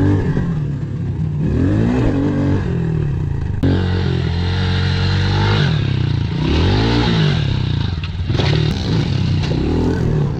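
Pit bike engine revving up and dropping back again about five times as the throttle is worked through a series of jumps.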